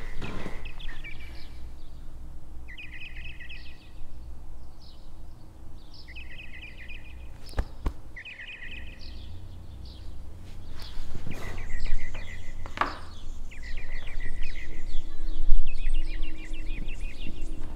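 Birds chirping in short repeated calls and quick trills over a steady low background rumble.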